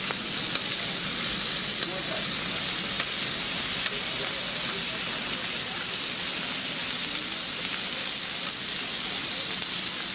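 Salmon fillets sizzling steadily as they sear on a hot flat-top griddle, with a few faint clicks.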